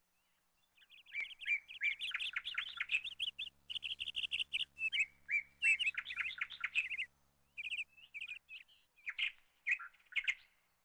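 Birds chirping: a dense, rapid run of quick high chirps that thins out after about seven seconds into scattered calls.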